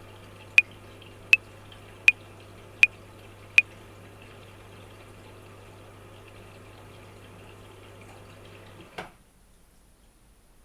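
Metronome clicking at 80 bpm, five clicks about three quarters of a second apart that stop about four seconds in. Under them runs a steady water-like noise with a low hum, which ends in a short thump about nine seconds in.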